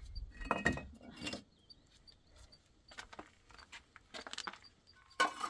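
Scattered knocks and clinks of objects being handled, the two loudest about half a second and a second and a quarter in, then fainter, irregular clicks.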